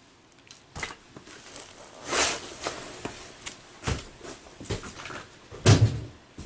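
Irregular knocks, clicks and short rustles of parts being handled, with a brief rustle about two seconds in and a duller, louder thump near the end.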